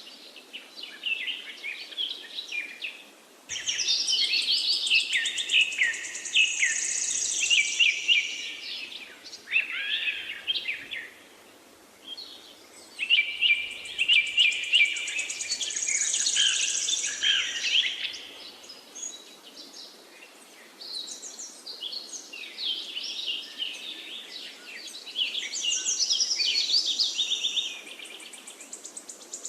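Several songbirds singing at once, a dense chorus of overlapping chirps, whistles and rapid trills that comes in bouts with brief lulls, over a faint steady hiss.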